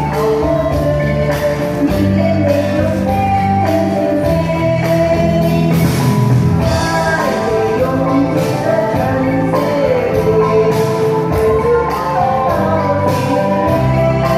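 Music: a Chinese pop song, with singing over a backing of instruments and a steady beat.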